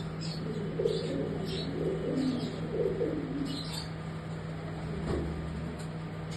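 Domestic pigeon cooing, a few low warbling coos in the first half, with short high chirps scattered throughout.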